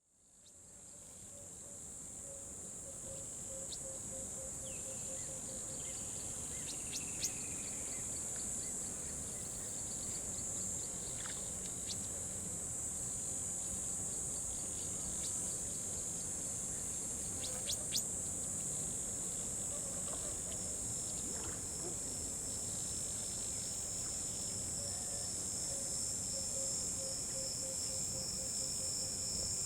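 Outdoor chorus of crickets and other insects: a steady high-pitched trill, with a second pulsing trill joining near the end and a lower pulsing call coming and going. It fades in over the first couple of seconds, and a few faint clicks sound along the way.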